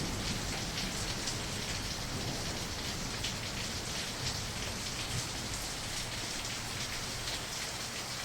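Steady heavy rain falling, an even hiss dotted with many fine drop ticks.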